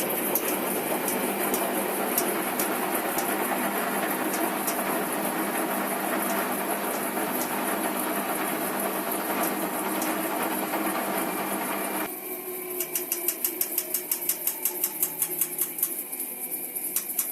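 Washing machine running on a spin cycle, a steady mechanical whir. About twelve seconds in it changes abruptly to a rapid, regular ticking with a faint tone that slowly falls in pitch.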